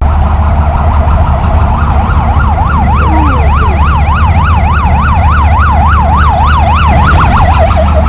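Emergency vehicle siren in a fast yelp, its pitch sweeping up and down about three to four times a second, over a loud steady low hum. The siren comes in about two seconds in and quickens near the end.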